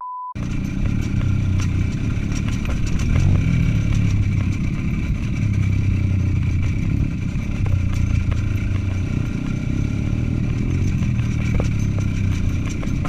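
Small motorcycle engine running under way, a steady low drone that swells and eases slightly with the throttle.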